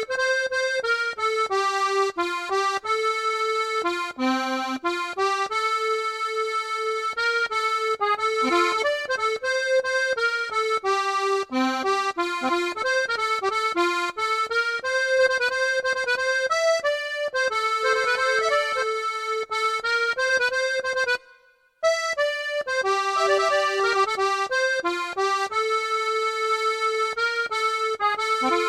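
Accordion playing a melody over sustained chords, breaking off briefly about 21 seconds in before picking up again.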